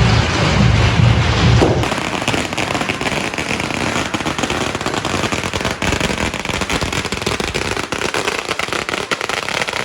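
Fireworks crackling and popping rapidly without let-up. In the first two seconds a heavy low pulsing beat plays, and it cuts off abruptly.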